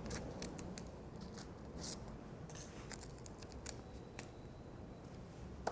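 Scissors cutting paper: a run of faint snips and clicks with brief paper rustles, shaping the paper into little bunting flags.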